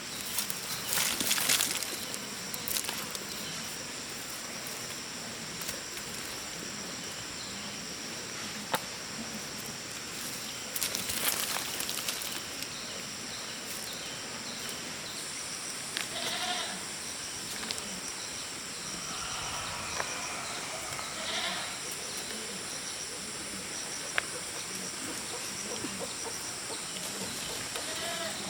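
Goats bleating a few short, wavering times in the second half, with bursts of rustling near the start and about a third of the way in.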